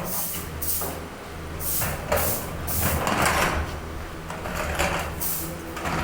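Repeated short scraping and clattering of metal parts being handled, over a steady low hum.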